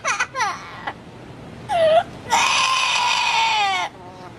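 A baby crying: a short cry, then a long wail held for about a second and a half that drops slightly in pitch before breaking off.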